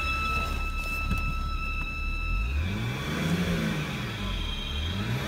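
2012 BMW 328i E93 giving off a steady high-pitched squeal of unknown origin that holds one pitch. About halfway through the squeal fades and the engine is revved twice, its pitch rising and falling each time.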